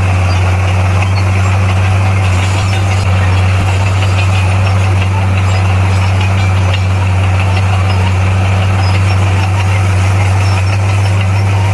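Heavy earthmoving machine's diesel engine running steadily, a deep even drone with no change in engine speed.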